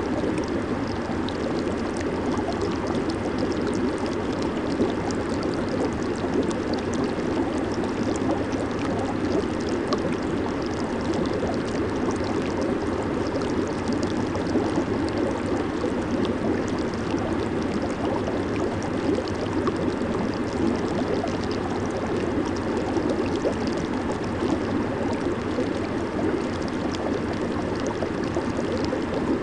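Jacuzzi hot tub water bubbling and churning steadily: an even rush of water with fine crackling.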